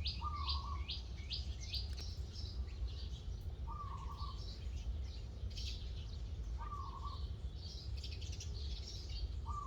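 Songbirds calling: a quick run of rising high chirps in the first two seconds, then scattered high chirps, with a lower short call from another bird repeated about every three seconds. A steady low hum sits underneath.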